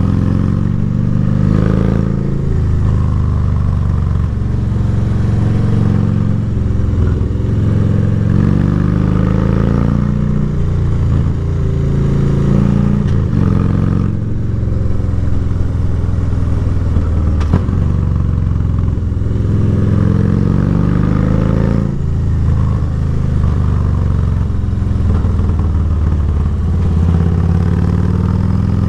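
Harley-Davidson motorcycle engine running under way, its pitch rising and falling several times as the bike speeds up and slows. A single sharp click sounds partway through.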